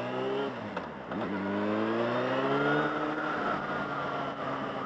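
Yamaha FZ6 Fazer's 600 cc inline-four engine pulling away under acceleration: the revs rise, drop sharply at a gear change about half a second to a second in, then climb again for about two seconds before settling to a steady cruise.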